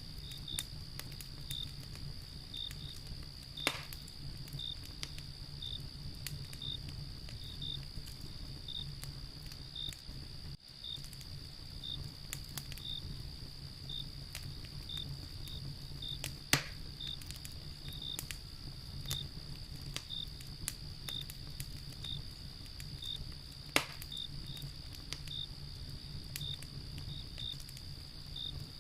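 Wood fire crackling with scattered small snaps and three sharp pops, over a steady high insect trill and a cricket chirping at an even pace.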